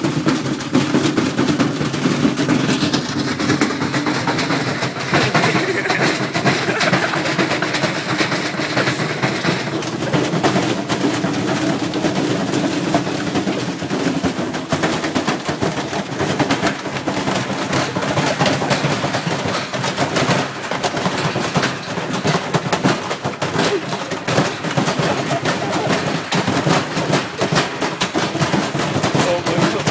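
Washing machine spinning at full speed with a car battery loose in the drum: a rapid, continuous banging and rattling over the steady hum of the motor and drum, the machine being wrecked by the load.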